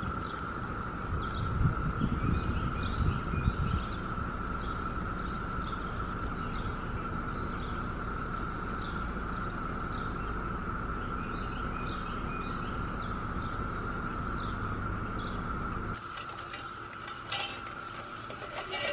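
Summer outdoor ambience: a steady high-pitched insect drone with short bird chirps repeating over it, and wind rumbling on the microphone in the first few seconds. Near the end come a few sharp clicks and rattles from an aluminium ladder as someone starts climbing down it.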